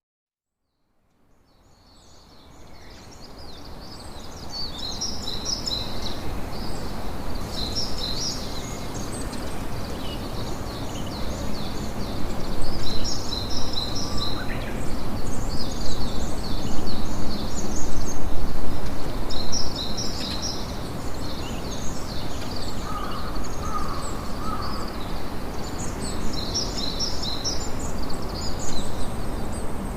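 Campfire crackling steadily, with small birds chirping in quick repeated bursts over it. The sound starts from silence and fades in over the first few seconds.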